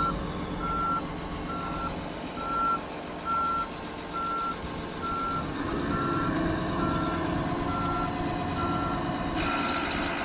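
Backup alarm on heavy equipment beeping steadily, about one beep a second, over an engine running; partway through, the engine note strengthens and climbs.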